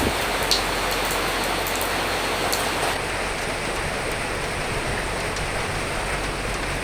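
Steady rain hiss with a few sharp drop ticks in the first half, during a lull in the wind, which stays low and soft.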